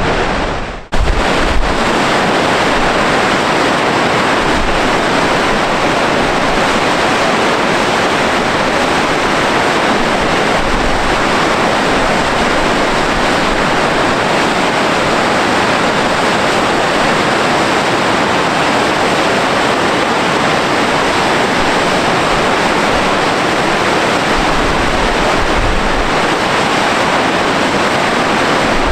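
Steady, loud rush of water from Gullfoss waterfall, with wind gusting on the microphone. The sound drops out briefly just under a second in, then resumes.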